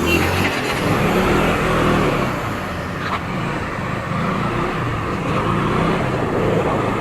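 KTM Duke 200 motorcycle running steadily on the road, its engine mixed with wind and road noise.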